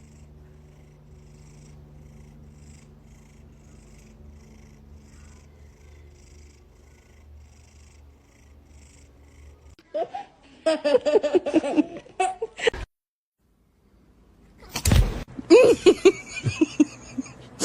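A domestic cat purring softly and steadily for about ten seconds, with a faint regular pulse of about two beats a second. Then come loud sounds that rise and fall in pitch, a brief dead silence, and more loud sound near the end.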